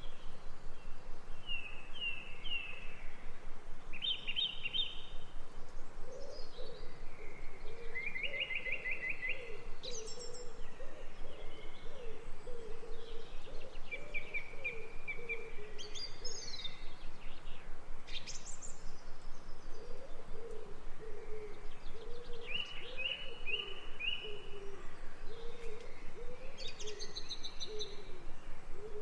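Birds singing: short high trills and chirped phrases every second or two, over a lower, wavering call repeated from about six seconds in, with a steady background hiss.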